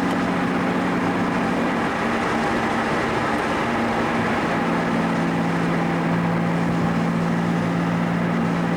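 Car engine running at a steady cruise with tyre and road noise, heard from inside the cabin; the engine note shifts slightly a few seconds in, then holds steady.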